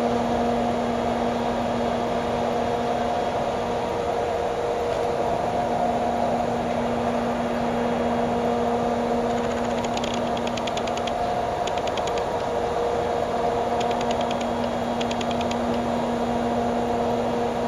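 Freight train rolling past: a steady rumble with a constant hum. From about ten seconds in come several short clusters of rapid clicking, typical of wagon wheels passing over rail joints.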